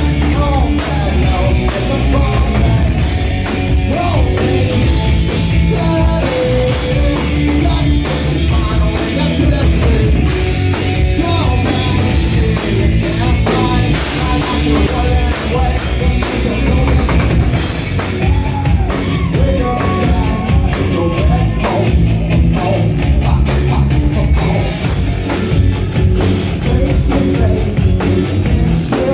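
A rock band playing live, loud and distorted, with drums and a singer's voice over guitars and bass.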